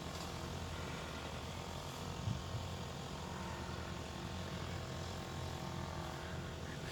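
Kite hummer droning steadily in the wind, several held tones sounding together over wind noise.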